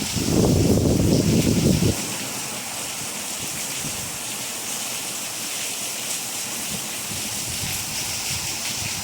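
Steady rain falling: an even hiss. A louder low rumble runs through the first two seconds.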